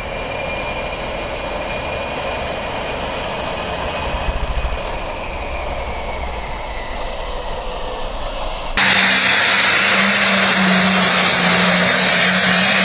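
Competition pulling engines running loud. About nine seconds in there is an abrupt cut to a louder, harsher run with a steady low drone.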